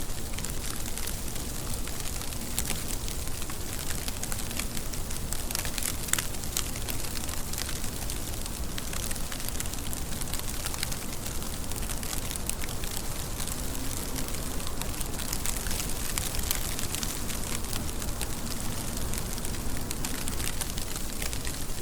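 Steady rain falling, with a dense patter of individual drops and a low rumble underneath.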